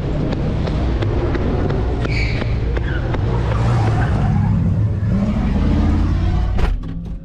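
Car engines running loud at a street takeover, with one engine revving up in a rising sweep about five seconds in. A sharp knock comes near the end, and the sound drops off after it.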